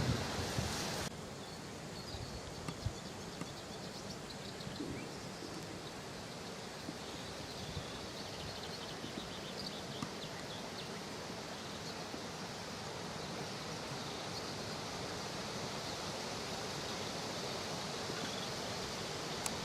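Steady outdoor background noise, an even hiss with faint scattered ticks and rustles; the level drops a step about a second in.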